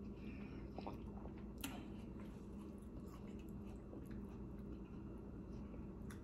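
Faint wet eating sounds close to the microphone: soft chewing and the squish of juicy orange wedges being handled and dipped in sour cream, with a few light clicks.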